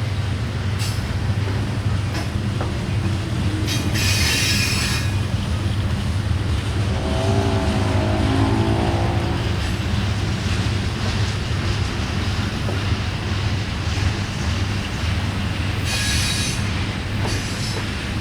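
Freight train rolling past with a steady low rumble of wheels on rail. Brief high wheel screeches come about four seconds in and again near the end, and a wavering squeal sounds around the middle.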